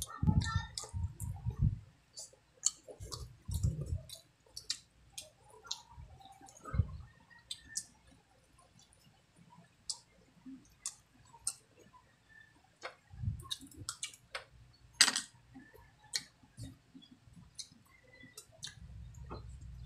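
Close-up mukbang eating sounds: irregular wet clicks and smacks of mouths chewing squid and rice, with a few short low thuds among them.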